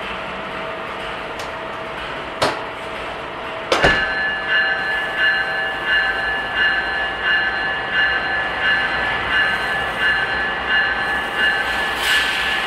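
Train sound effects, most likely a recording, since the car itself stands still: a steady running noise broken by a sharp clank about four seconds in. After the clank a pulsing ringing tone sets in, about three pulses every two seconds.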